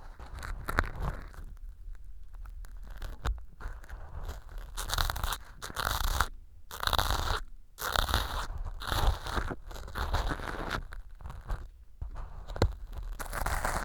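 An ear pick scraping and crunching through small pieces of dry floral foam set as fake earwax in a silicone ear model, close to a binaural microphone. It comes in a run of crisp strokes a second or two long, with short pauses between them.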